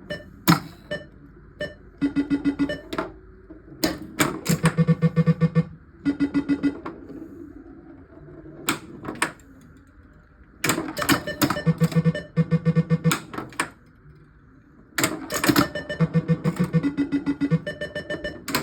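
1979 Gottlieb Pinball Pool pinball machine in play: its sound board sends out repeated bursts of rapid pulsed electronic tones, stepping between a low and a higher pitch, among sharp mechanical clacks from the playfield.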